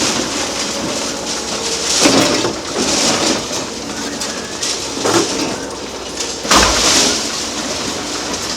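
Excavator demolition of a concrete bridge: concrete crunching and breaking with falling debris, several louder crunches, and short metallic squeals from the steel and the attachment.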